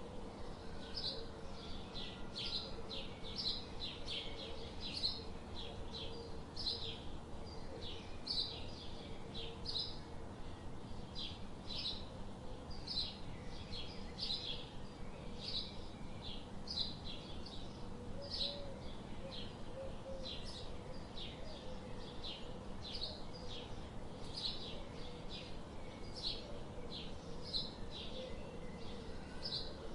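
Birds chirping: many short, high calls follow one another two or three times a second without a break, over a faint steady hum.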